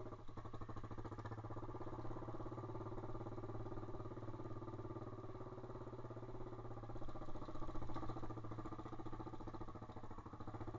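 Pit bike's single-cylinder engine running steadily under the rider, a little louder about seven seconds in.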